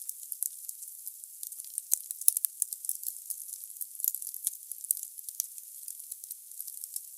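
Wood fire crackling in a fireplace: a steady high hiss dotted with many small sharp crackles, and a few louder pops about two seconds in.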